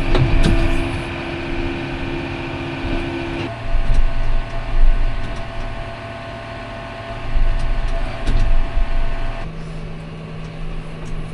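Farm vehicle engines running steadily, in three stretches that each have a different steady hum and change abruptly, with a few knocks and clanks between.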